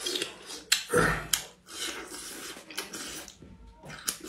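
A person eating strips of spicy duck intestine: slurping the strands in and chewing with wet mouth clicks and smacks. The loudest sound comes about a second in.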